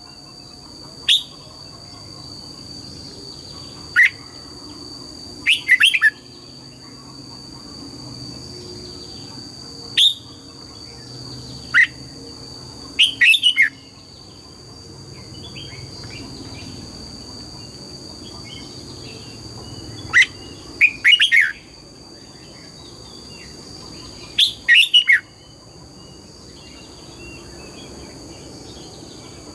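Red-whiskered bulbul singing short, loud phrases of sharp falling whistled notes, a single note or a quick cluster every few seconds. A steady high-pitched whine runs underneath.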